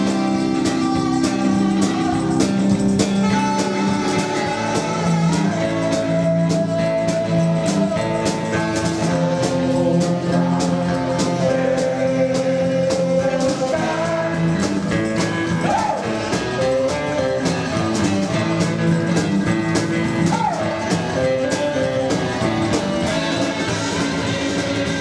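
Live rockabilly band playing, with electric guitar, double bass and drums keeping a steady beat under singing.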